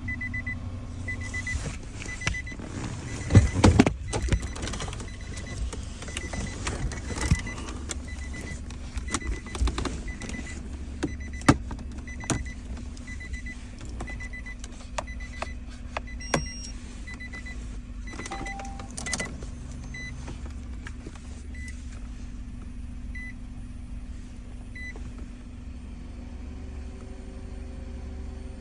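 A faint, high electronic beep repeating about once a second, which stops about 25 seconds in, over a steady low hum. Clicks and knocks of handling come and go, the loudest a cluster of knocks about 3 to 4 seconds in.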